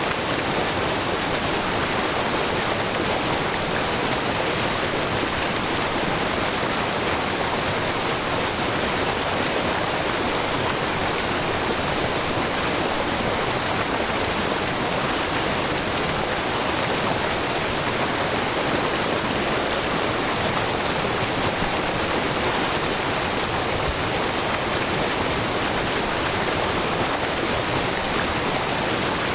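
Steady rushing and splashing of a low, wide waterfall, many thin streams of spring water pouring over a rock face into a pool and brook; an even, unbroken hiss.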